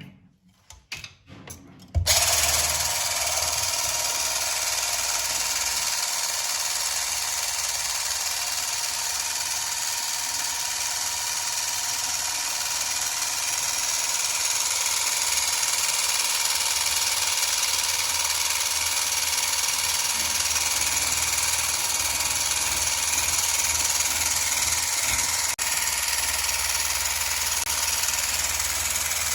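Electric mixer whipping liquid cream: a few light knocks, then about two seconds in the motor starts and runs steadily, with a brief dip near the end.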